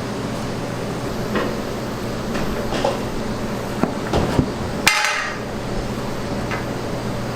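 A handful of knocks and clinks of kitchen utensils and dishes. The loudest comes about five seconds in with a short ring. A steady machine hum runs underneath.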